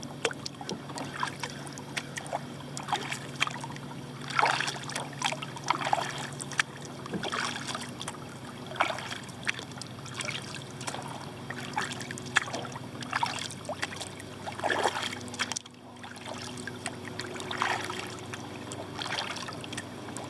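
Kayak paddle strokes, with irregular splashes and water trickling off the blades. Under them runs a steady engine drone, which the paddler takes for someone mowing a lawn.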